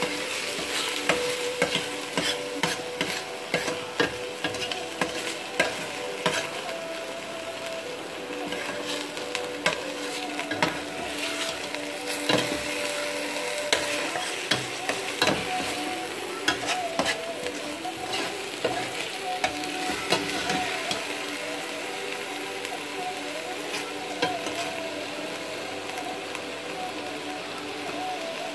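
Tadka of finely chopped onion sizzling in hot oil in a stainless steel pan, stirred with a spoon that clicks and scrapes against the pan again and again.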